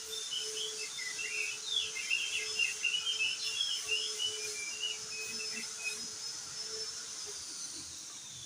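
Crested darkeye (opior jambul) singing a rapid, jumbled twittering song for about six seconds. Behind it runs a steady high thin tone that slides down in pitch near the end, over a faint low steady hum.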